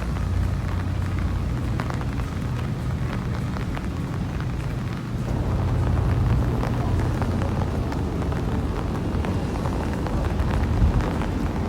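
Steady rain falling, with scattered drop ticks, under a heavy low rumble of wind buffeting the microphone.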